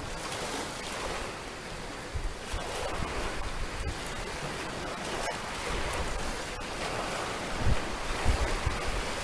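Small waves breaking and washing on the shore in a steady wash, with low rumbles of wind on the microphone near the end.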